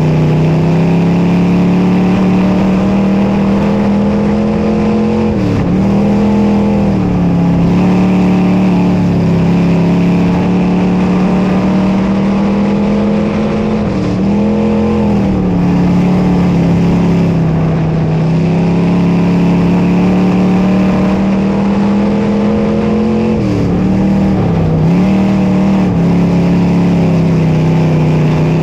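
Dirt modified race car's V8 engine running hard at high revs. Its pitch dips briefly and climbs back about every nine seconds as the throttle is lifted and reapplied for the corners.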